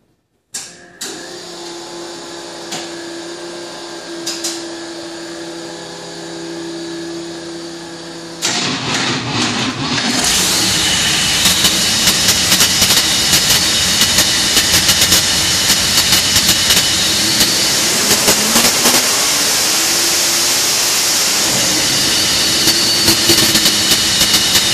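A twin-engine dragster's pair of 358-cubic-inch V8s being started. A steady hum with a fixed whine runs first, then the engines catch about eight and a half seconds in and, about ten seconds in, run loud and crackly with sharp exhaust pops. The note rises once about two-thirds of the way through.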